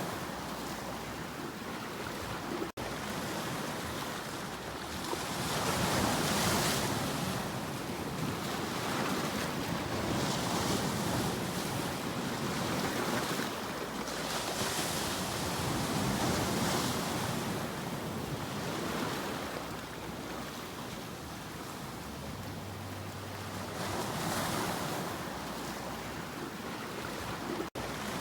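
Ocean surf: waves breaking and washing in, a continuous rushing that swells and ebbs every few seconds. Two split-second gaps cut the sound, about three seconds in and near the end.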